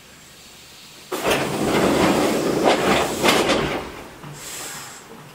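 Kintetsu 8810-series commuter train at a station stop: a sudden loud hiss about a second in that lasts around three seconds, then fades.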